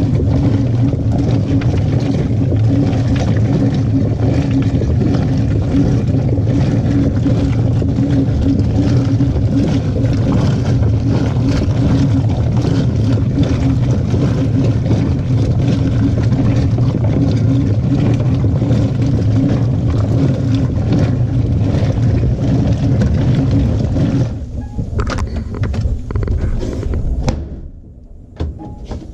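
Washing machine agitating a load of jeans: the motor hums steadily under churning noise, then stops about 24 seconds in and the sound falls away.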